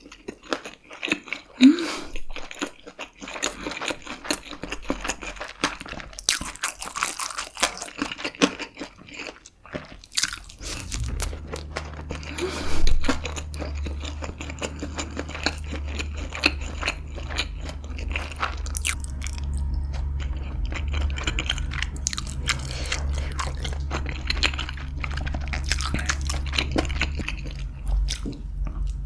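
Close-miked chewing and biting of gimbap, with many short crunchy, wet mouth sounds. A steady low hum starts about a third of the way in and runs under the chewing.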